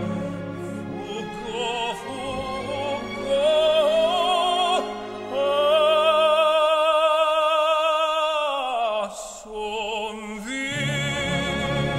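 Operatic aria: a singer with wide vibrato over an orchestra, holding one long high note for about three seconds before it slides down, then the orchestra comes back in near the end.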